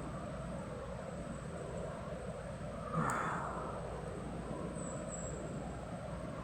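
Steady low background rumble with a single sharp knock about three seconds in.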